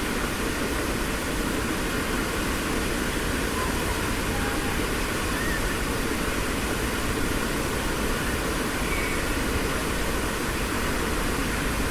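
Steady outdoor rushing noise at an even level, with a few faint, brief chirps scattered through it.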